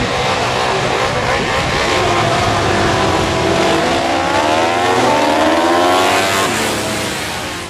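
Classic superbike racing motorcycles at full throttle, the engine note climbing and swelling as they come past, then dropping away and fading near the end.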